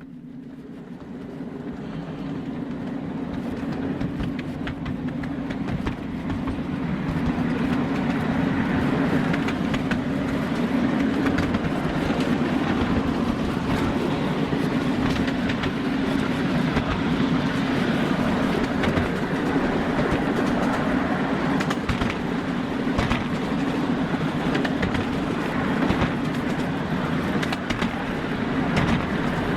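Train running along rails with a steady low rumble and frequent clicks of wheels over rail joints, building up over the first several seconds and then running steadily.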